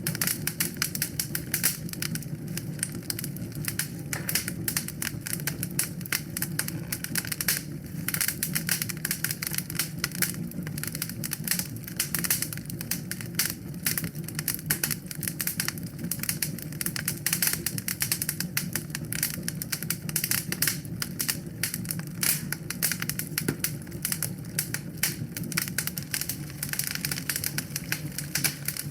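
Wood fire burning in a fireplace, crackling with dense, irregular pops and snaps over a steady low rush of flame.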